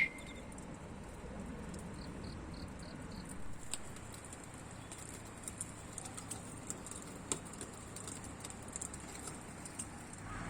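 Wood fire crackling in a fire pit: scattered small pops over a quiet outdoor background with a faint steady high hum. A short run of about five high chirps comes about two seconds in.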